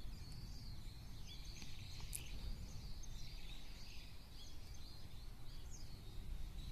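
Several small songbirds chirping and twittering, many short overlapping calls, over a steady low rumble.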